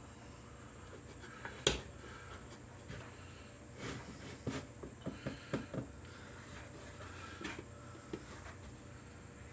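Cedar picket boards knocking and tapping as a piece is handled and fitted into the birdhouse box: one sharp knock about two seconds in, then a quick run of light wooden taps and a couple more near the end.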